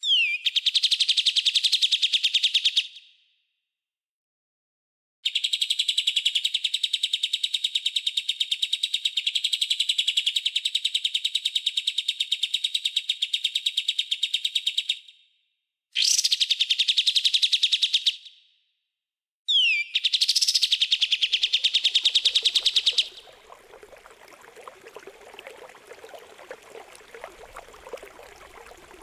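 Songbird calls used as a training recording, in four bursts of rapid-fire trilling: each opens with a quick falling sweep and runs into a machine-gun stream of sharp repeated notes. About 23 seconds in the calls stop, and a quieter sound of trickling water takes over.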